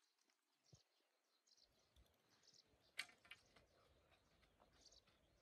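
Near silence with faint, scattered bird chirps and a single soft click about three seconds in.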